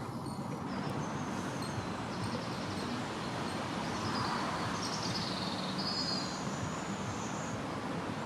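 Small birds chirping in short high bursts over a steady rushing background noise.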